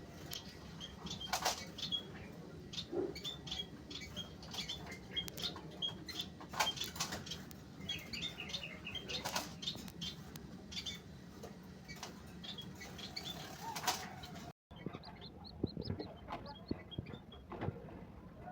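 Pigeon squab begging while being fed by its parent: a run of short, high squeaky peeps mixed with quick wing flutters and rustles. The sound breaks off briefly about two-thirds of the way through.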